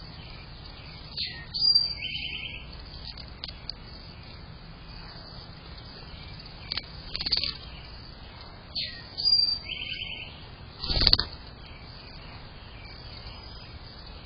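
Wild songbirds calling: scattered short chirps and down-slurred whistles, twice followed by a quick buzzy trill. A short, louder burst comes about eleven seconds in, over a steady low background hiss.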